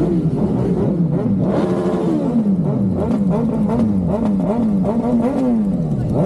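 Superbike engine being revved on the throttle: one rev rising about a second in and falling away slowly, then a run of quick rev blips about two a second, and a sharp rev near the end.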